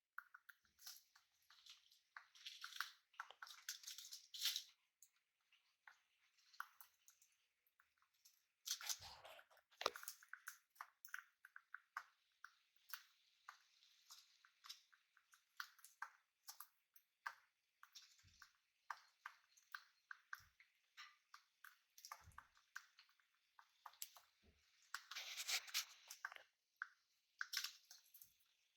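Faint, irregular clicking and crunching of small parrots' beaks chewing and nibbling, with a couple of louder bursts of crackling partway through.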